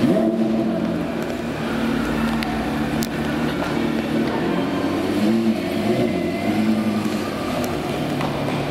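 Porsche Carrera GT's V10 engine running at low revs as the car rolls slowly away, with a few small rises in revs: one right at the start and two more around the middle.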